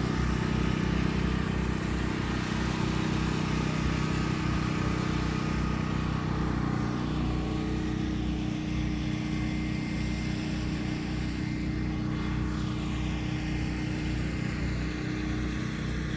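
Volkswagen Beetle engine running steadily at a low, even idle, its note settling slightly lower about seven seconds in.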